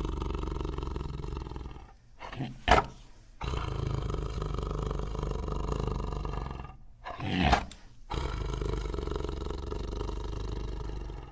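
Custom-made honey badger sound effect: three long, steady, deep animal calls, with two short, sharp, louder cries between them about two and a half and seven and a half seconds in.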